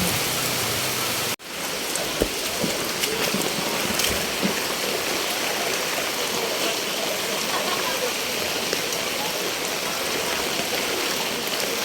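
Steady rush of fast-flowing floodwater, with a sudden brief break in the sound about a second and a half in.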